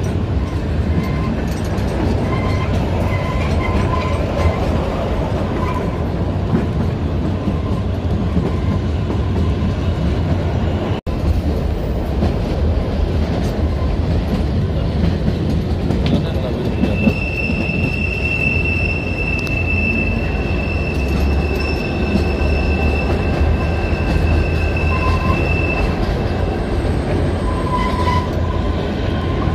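Kalka–Shimla narrow-gauge toy train heard from aboard a moving carriage: a steady rumble of wheels and coach on the track. From a little past halfway, a long, high, steady wheel squeal lasts about ten seconds. The sound breaks off for an instant about a third of the way in.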